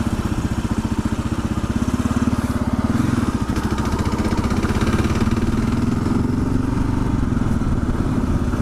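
Kawasaki KLR 650's single-cylinder engine running at low road speed while riding, its note picking up slightly about three seconds in.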